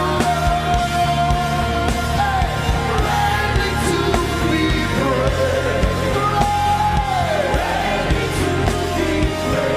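Live gospel worship music: a band with drums and bass under a voice that holds long notes and slides down at the end of each, twice.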